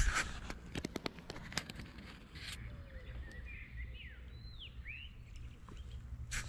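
Birds chirping, with a few quick rising and falling calls around the middle, over a steady low rumble. A run of sharp clicks comes in the first two or three seconds.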